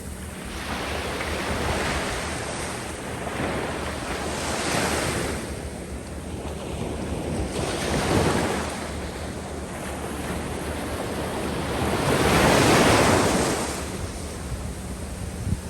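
Waves breaking and washing up the sandy beach in repeated swells of rushing surf, several a few seconds apart, the biggest near the end. A steady low rumble of wind on the microphone runs underneath.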